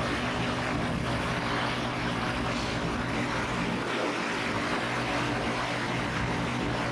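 Daikin Rebel Applied rooftop HVAC unit running: a steady mechanical drone of fans and compressors with a low, even hum.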